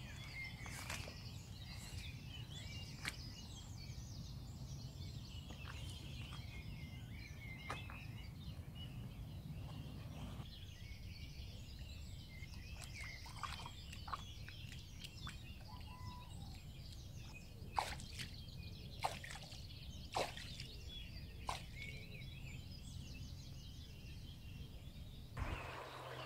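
Birds chirping and singing, over a low steady hum that stops about ten seconds in. A few short, sharp knocks sound in the second half.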